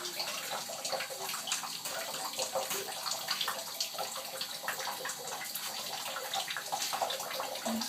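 Water in a bathtub, with many small irregular splashes and drips.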